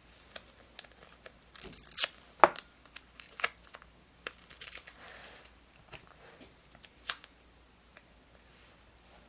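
Paper being torn and handled in short stretches, about one and a half seconds in and again near the middle, with scattered light taps and clicks between them.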